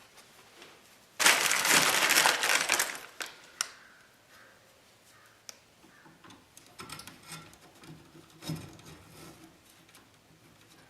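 Loud crinkling and scraping for about two seconds, then a few faint clicks and rustles: bare copper ground wires being handled and pressed together in a receptacle box.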